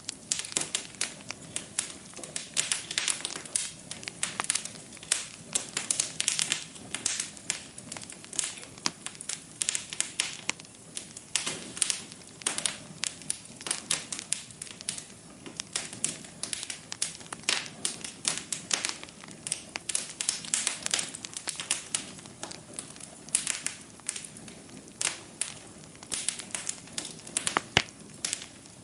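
Wood fire in a fireplace crackling, with many irregular sharp pops and snaps over a low steady hiss of the flames.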